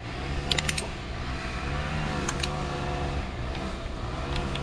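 An engine runs steadily with a slightly wavering pitch, and a few sharp metallic clinks sound about half a second in and again a little past two seconds.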